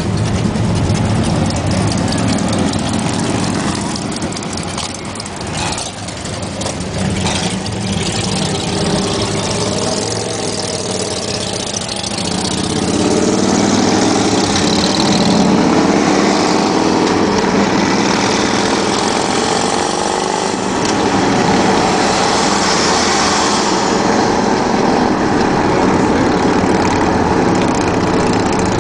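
Motor vehicle engines running steadily in traffic, growing louder about twelve seconds in as engine pitch rises and falls.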